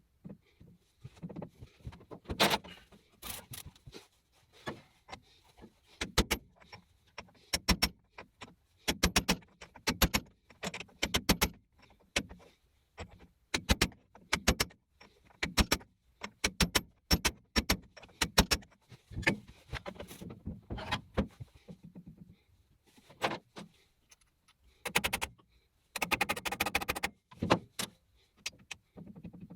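Metal parts being handled: irregular sharp clinks and knocks, with a denser run of clatter near the end.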